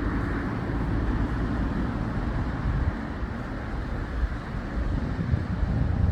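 Road traffic noise from passing cars and trucks, a steady rumble with gusts of wind buffeting the microphone.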